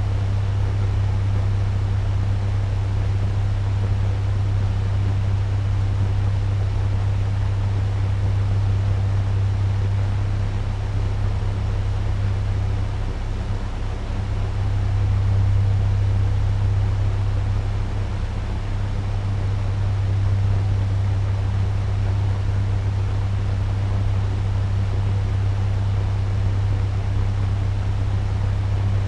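Turbo fan running steadily at medium speed: an even rush of air over a strong, low motor hum, dipping slightly about halfway through and swelling back.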